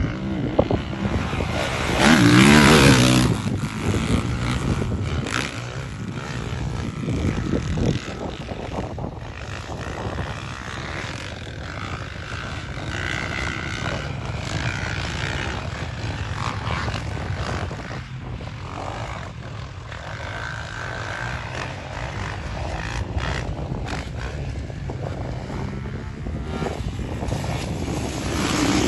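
Motocross bike engines revving as the bikes ride the track. One bike passes close and loud about two seconds in, its pitch rising and falling, and after that the engines carry on more distantly before growing louder again near the end.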